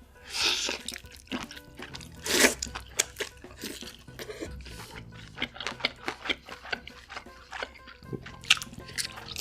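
Close-miked eating sounds: chewing with wet mouth clicks and a few louder bursts of crunching or slurping, over soft background music.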